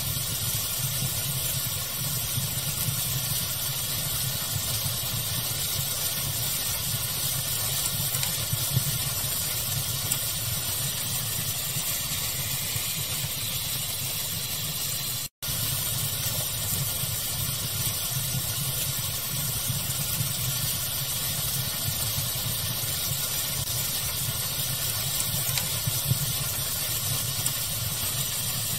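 Steady pink-noise hiss mixed with a crackling fire, with a few sharper crackles standing out now and then. The sound cuts out for an instant about halfway through.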